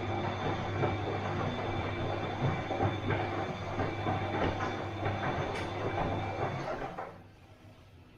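Bosch washing machine running, a steady motor hum with the drum rattling and clattering, which stops abruptly about seven seconds in, leaving only a faint background hum.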